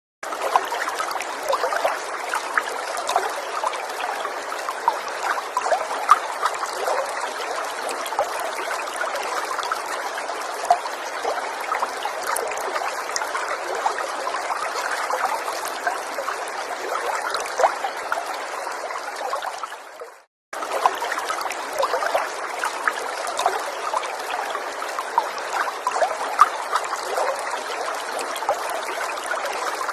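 A small forest stream trickling and babbling over stones, a steady rush of water with many little splashes. The recording cuts to silence for a moment right at the start and again about 20 seconds in, where the loop restarts.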